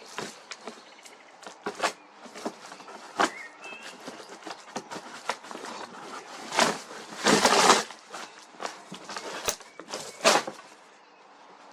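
Packaging of a boxed electric scooter being handled and opened: irregular knocks, scrapes and rustles, with a longer tearing rustle about seven seconds in.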